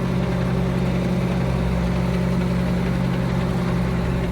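Ford 9700 tractor's six-cylinder diesel engine running at a steady, even speed.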